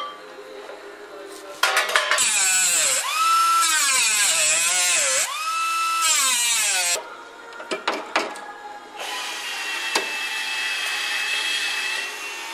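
Handheld power tool whining, its pitch dropping and climbing back several times as the motor bogs under load and recovers. A few sharp clicks follow, then a steadier, fainter whine near the end.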